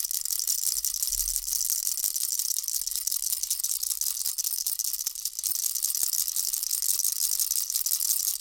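Baby rattle shaken steadily: a dense, fast patter of small beads clicking, bright and hissy, swelling and easing slightly in waves.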